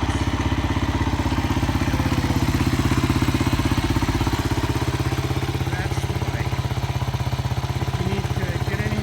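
Single-cylinder four-stroke engine of a 1996 Kawasaki KLR 250 dual-sport motorcycle idling steadily after starting.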